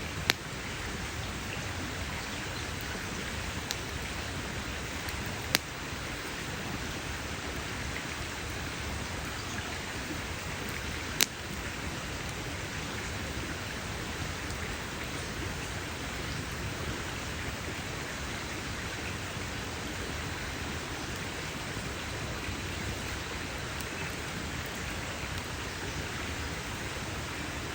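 Campfire burning with a steady crackling hiss, broken by a few sharp pops of the wood: one right at the start, one about five seconds in, and the loudest about eleven seconds in.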